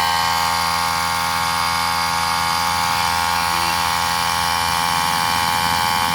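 Electric air compressor running steadily while inflating a car tyre, with an even motor hum.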